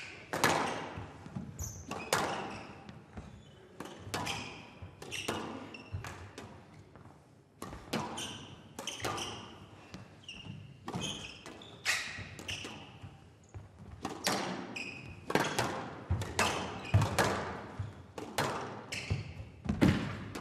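Squash rally: the ball cracks off rackets and walls about once a second, each hit echoing in a large hall, with short high shoe squeaks between hits.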